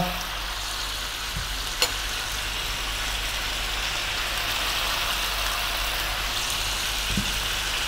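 Lamb pieces with chopped onion and garlic sizzling steadily in a hot frying pan, with one light click about two seconds in.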